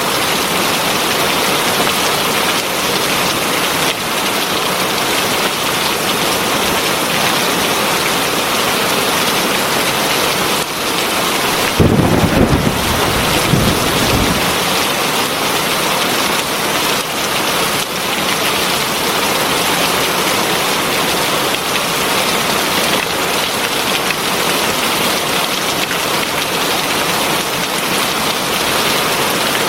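Heavy rain falling steadily, with a short low rumble of thunder about twelve seconds in that lasts around two seconds.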